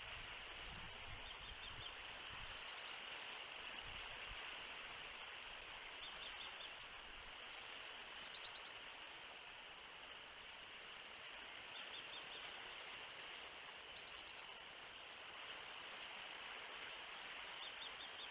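Faint outdoor ambience at a bald eagle nest: a steady hiss of wind and distant water, with short, rapid chirping notes from birds every few seconds and a few low rumbles of wind on the microphone in the first few seconds.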